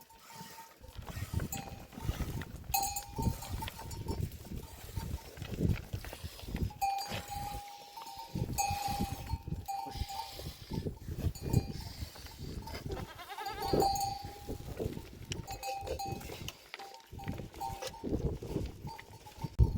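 Neck bells on a herd of livestock clanking and ringing irregularly as the animals move, over shuffling and knocking from the herd.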